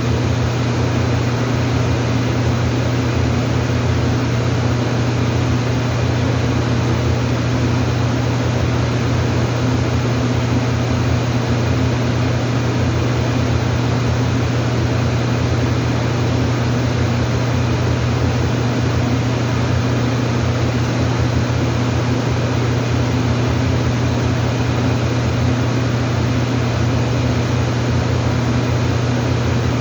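Steady mechanical hum: a strong low drone under an even hiss, unchanging in level.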